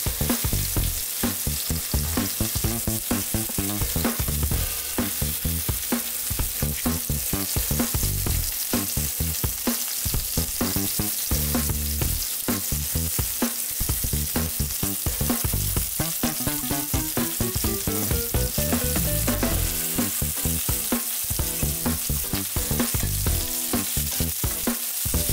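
Flour-dusted meatballs searing in butter in a nonstick frying pan: a steady sizzle, with a fork tapping the pan as they are turned to brown.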